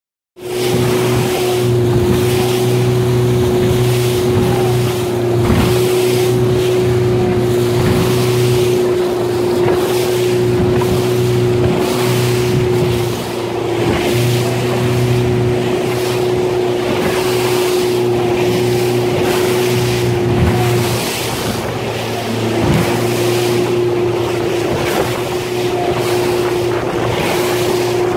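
Wind and rushing water at sailing speed with a steady humming drone, which breaks off briefly a few times.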